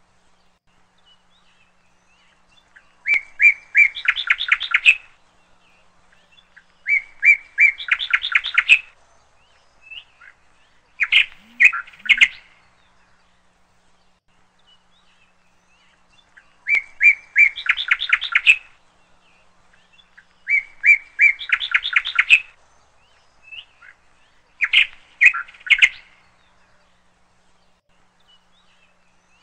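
A songbird singing in short phrases of quick chirps, each phrase a few notes followed by a rapid run. Six phrases come a few seconds apart, with quiet between them.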